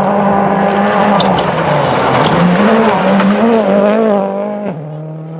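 Rally car engine running hard on a gravel stage, its pitch rising and falling through the throttle and gear changes. Near the end the note drops lower and fades away as the car goes off.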